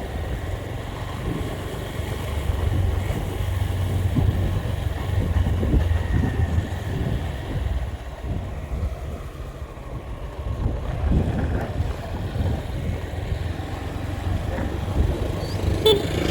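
Wind buffeting the microphone over the low rumble of a moving vehicle on the road.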